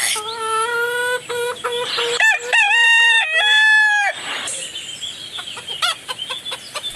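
Rooster crowing: one cock-a-doodle-doo of several held, stepped notes over the first four seconds, followed by fainter scattered clicks.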